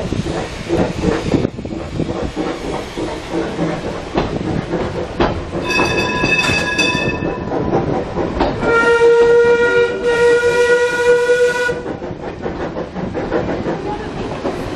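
Small steam locomotive working along the line with steady rhythmic chuffing and rail clatter. It sounds its whistle twice: a short, higher blast about six seconds in, then a longer, lower and louder blast about three seconds later.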